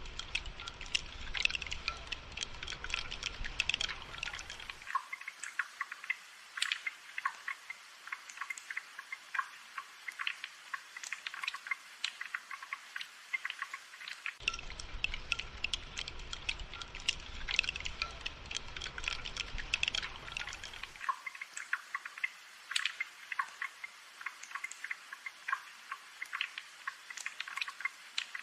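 Rain dripping and pattering in a dense, irregular scatter of small drops. A low rumble runs underneath for the first few seconds and comes back in the middle for about seven seconds.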